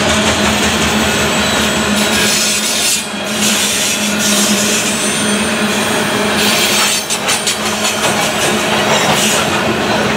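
Freight train hopper cars rolling past close by: steel wheels on the rails give a steady, loud rasping noise with a constant low hum. The sound dips briefly about three seconds in and again about seven seconds in.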